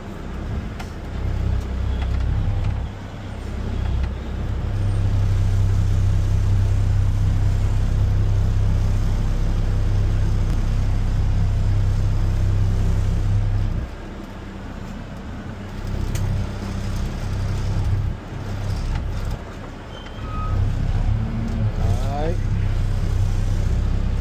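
Garbage truck's diesel engine running, held loud and even for about ten seconds, then dropping back suddenly and building up again near the end. A brief squeal is heard a couple of seconds before the end.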